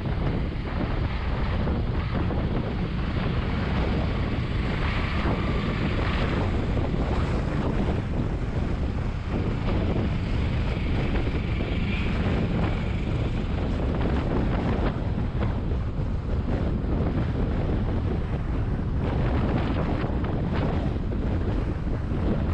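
Steady wind rush buffeting the GoPro's microphone on a moving Bajaj Vikrant V15 motorcycle, with the bike's engine running beneath it.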